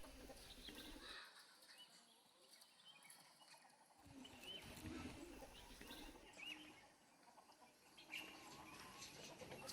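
Faint outdoor background with a few short, high chirps from small birds scattered through it.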